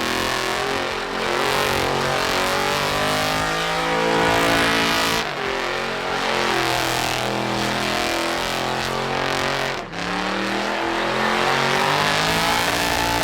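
Loud diesel truck engines running and revving at high rpm, with the pitch holding and shifting in steps and short breaks in the sound about 1, 5 and 10 seconds in.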